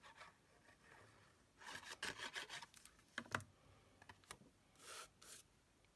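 Faint rubbing and scraping of card stock being handled and glued, in scratchy spells about a second and a half in and again near the end, with a light tap about three seconds in.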